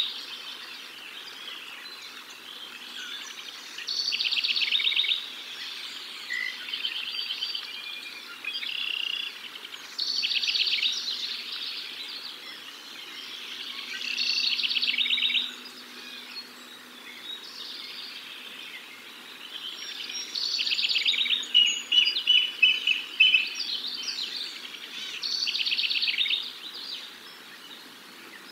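A bird calling in a repeated series of high, rapid chattering phrases, each about a second long, coming every four to six seconds, with a busier run of calls about three-quarters of the way through, over a faint steady background noise.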